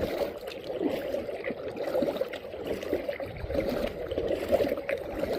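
Water gurgling and trickling against a kayak as it is paddled.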